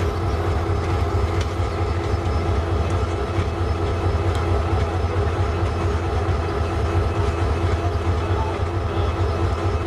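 Passenger train of PT INKA coaches pulling away along the track: a steady low rumble with a few faint clicks.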